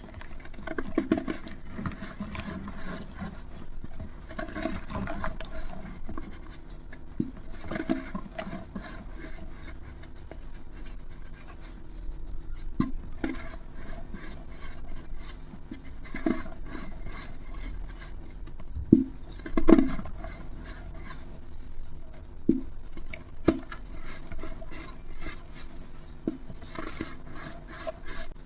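Something crumbling as it is crushed: a dense run of fine crackles with a soft thud every few seconds, the two loudest thuds a little over two-thirds of the way through.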